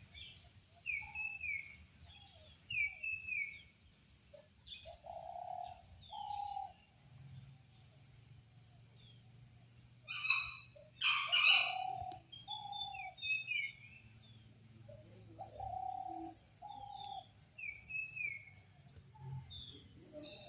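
Birds chirping and calling in short repeated phrases over a steady high insect chirp that pulses about twice a second, with a louder flurry of calls about ten seconds in.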